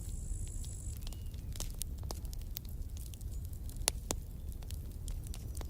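Campfire wood crackling, with irregular sharp pops over a steady low rumble of the burning fire; two louder pops come about four seconds in.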